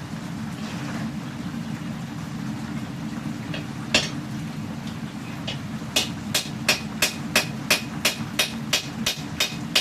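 Hand hammer striking the hot steel of a katana blade being forged: one blow about four seconds in, then a steady run of blows at about three a second. A gas forge burner hums steadily underneath.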